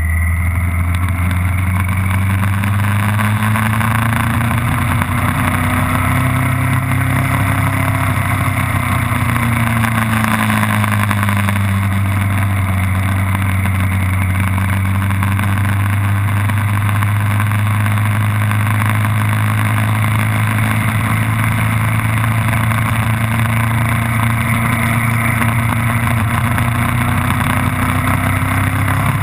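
Vehicle engine running at nearly constant revs, its pitch rising slightly and settling back in the first third, under a steady hiss of wind and road noise.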